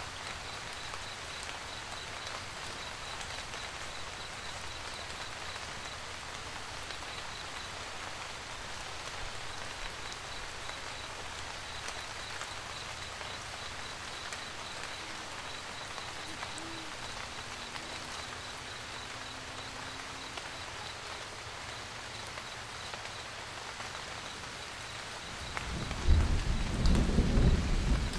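Steady rain pattering on a camper van roof, with a faint high pulsing chirp beneath it. Near the end a loud, deep roll of thunder swells up suddenly.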